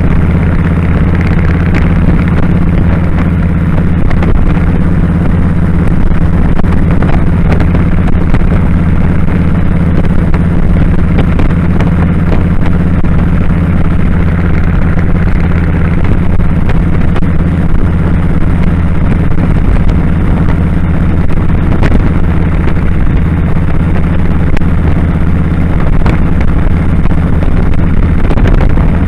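Kawasaki Drifter 1500's V-twin engine running at a steady, unchanging speed while riding, over a constant rush of wind and road noise.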